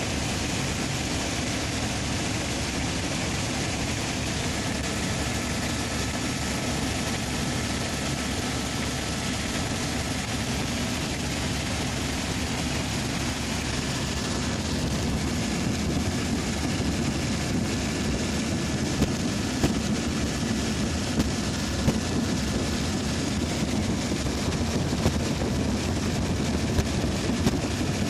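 Helicopter in flight: steady, loud engine and rotor noise with no change in pitch. A few short sharp clicks come through in the second half.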